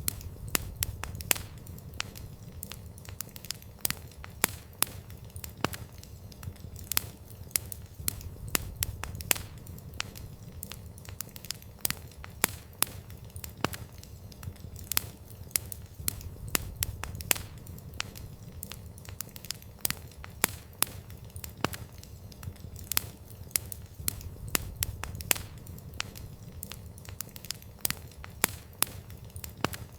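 Campfire burning: wood crackling with frequent sharp, irregular pops and snaps over a low steady rumble of flames.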